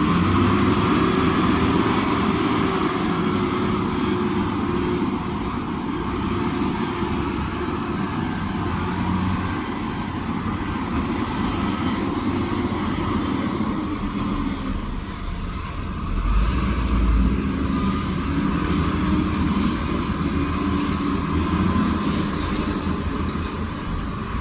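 Heavy diesel engines of earthmoving machinery running under load, the engine note rising and falling several times as the machines work. A deep low rumble comes in about two-thirds of the way through.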